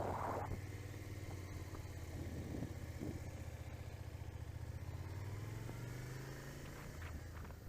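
Motorcycle engine running at low, steady revs. Its pitch rises slightly about two-thirds of the way through, then falls back near the end. The start is louder, with a brief rush.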